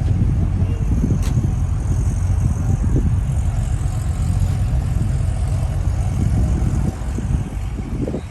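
A vehicle engine idling: a steady low rumble that eases a little near the end.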